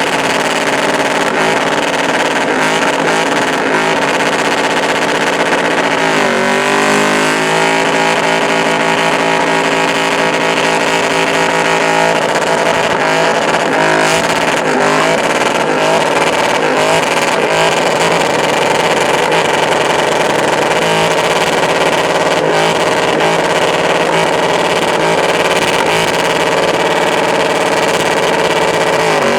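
LS-swapped V8 in a 1984 Chevrolet C10 pickup held at high revs during a burnout, the engine note staying steady with a brief dip and climb in revs about a quarter of the way through and another drop at the very end.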